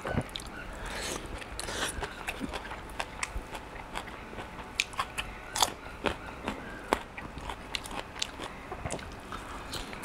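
A person chewing a mouthful of rice and stir-fried water spinach eaten by hand: close-up mouth sounds of chewing, with many small sharp clicks and crackles scattered throughout.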